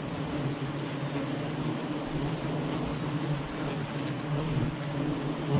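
A swarm of honeybees buzzing in a steady low hum.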